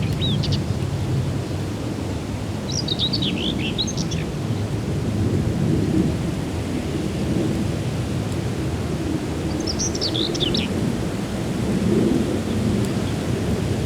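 A small songbird sings three short twittering phrases: one at the very start, one about three seconds in, and one about ten seconds in. Underneath runs a steady low rumbling noise, the loudest sound throughout.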